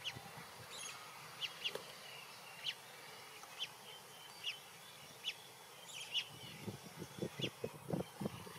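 Birds chirping, with short high chirps repeating about every half second to a second. From about three-quarters of the way in comes a quick run of short low sounds.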